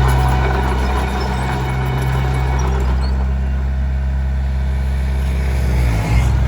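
Komatsu D21P bulldozer's diesel engine running steadily under work, with rough clattering noise over it in the first half. The engine note dips briefly about six seconds in.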